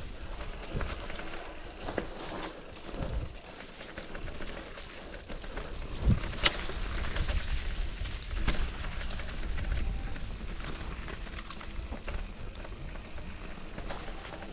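Mountain bike rolling down a dirt singletrack trail: tyre noise over the ground with scattered knocks and rattles from the bike, the sharpest about six seconds in, and wind rumbling on the microphone.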